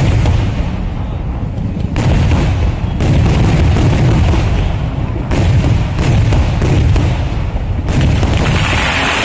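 Traditional Kerala temple fireworks (vedikkettu): a dense barrage of loud booming blasts, one after another, with sharp bangs about every second over a continuous heavy low rumble.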